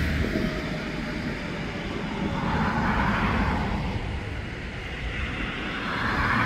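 City street traffic: vehicles passing, their tyre and road noise swelling and fading about every three and a half seconds.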